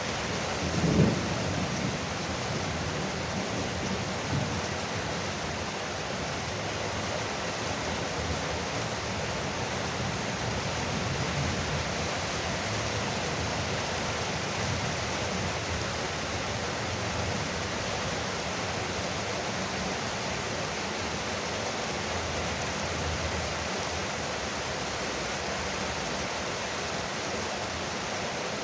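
Heavy rain drumming steadily on a veranda roof, with a brief low thump about a second in.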